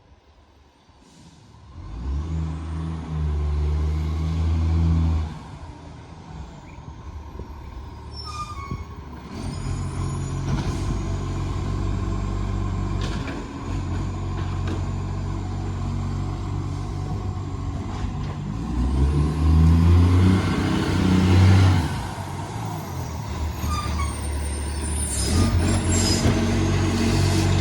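Side-loader garbage truck's diesel engine running and revving hard through a massive exhaust leak, in loud surges a few seconds in and again about twenty seconds in. A high whine rises and falls over it, with a few sharp hisses or clunks.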